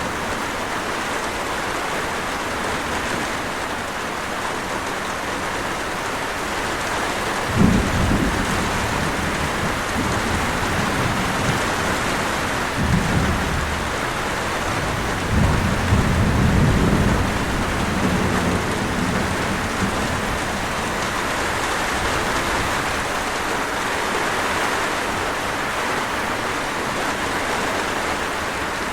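Steady rain in a thunderstorm, with thunder: a sudden low rumble about a quarter of the way in, a shorter one a little later, and a longer rumble around the middle.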